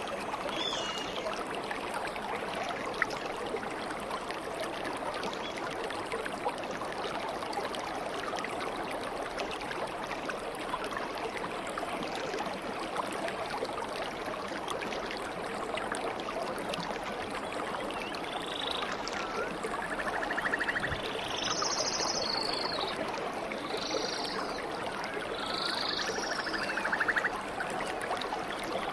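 Steady babbling of flowing stream water. About two thirds of the way in, birds start calling over it with short high chirps and a couple of quick rattling trills.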